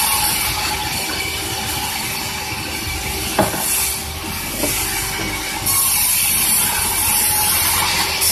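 Sawmill saw running and cutting through a large durian log: a steady mechanical hum under a hissing cutting noise that gets louder about six seconds in, with a couple of sharp knocks around the middle.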